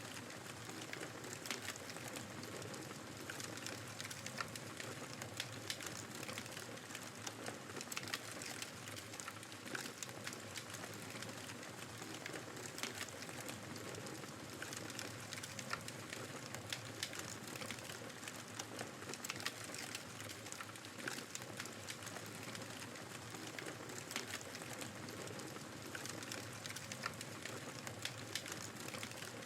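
Wood fire crackling, with frequent irregular sharp pops, over a steady rush of blizzard wind.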